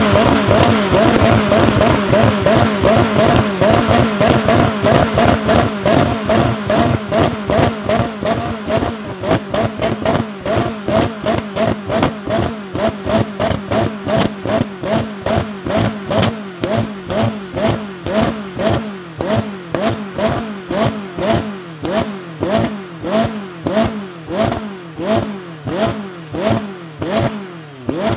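McLaren 600LT Spider's twin-turbo 3.8-litre V8 being revved while parked, in rapid repeated throttle blips about twice a second, each rising and falling in pitch. The blips run almost together at first and grow more separate and a little quieter later.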